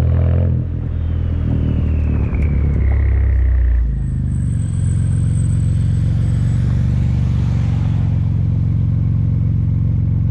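BMW 335i's N54 twin-turbo inline-six through a dual 3-inch exhaust with an MG Motorsport muffler and Magnaflow sport secondary cats. It is loud for the first half second, then drops off with a whine falling in pitch over a few seconds. From about four seconds in it runs with a steady, even drone.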